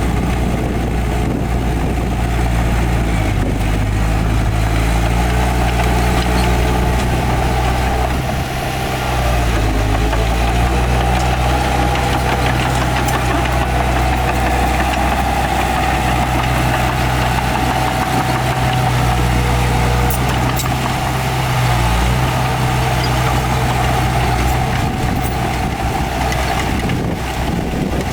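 Heavy diesel engine of earthmoving machinery running steadily, its pitch shifting a little every few seconds.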